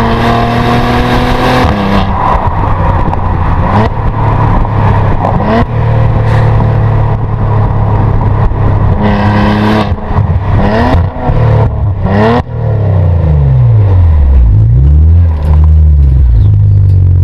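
Maserati Levante GranSport SQ4's twin-turbo V6 engine running hard, holding a steady note for long stretches with a few sharp cracks and quick rises in revs. Near the end the revs swing down and back up several times.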